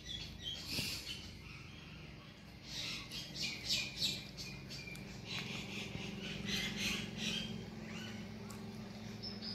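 Birds chirping in quick clusters of short, high calls, over a steady low hum.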